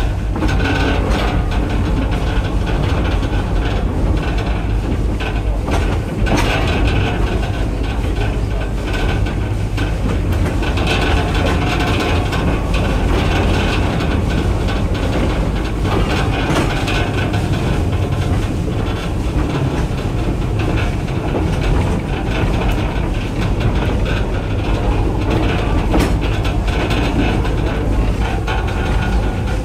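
Railway carriage running along narrow-gauge rack-railway track: a steady low rumble with wheels clacking over the rail joints now and then.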